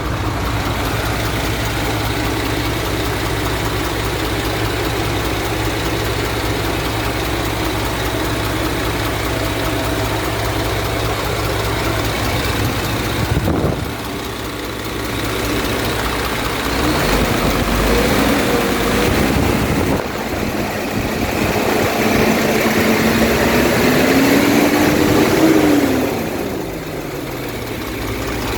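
Isuzu 7.8 L inline-six diesel in a 2004 GMC T7500 idling steadily, then revved up for several seconds and dropping back to idle near the end; it seems to be running good.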